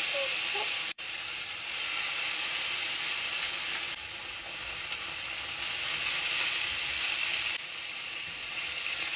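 Kimchi sizzling as it fries in a hot frying pan, a steady hiss that drops out for an instant about a second in.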